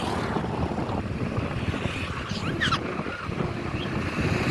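Wind rumbling on the microphone, with a few short high chirps about halfway through.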